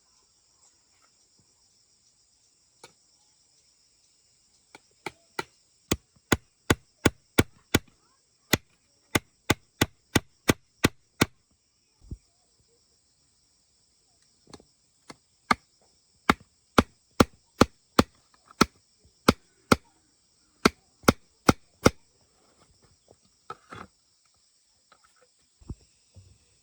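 Rapid, evenly spaced tool strikes on wood, about three a second, in two long runs with a pause of a few seconds between them. A steady high buzz of insects runs underneath.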